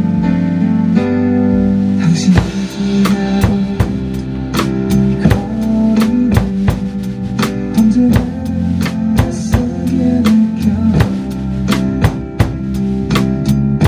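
A drum kit played along to a worship song's backing track. The track's instruments play alone at first. About two seconds in the kit comes in with bass drum and snare in a steady beat.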